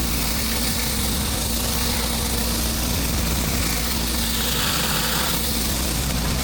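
Pressure washer's gas engine running steadily, with a steady high hiss over it.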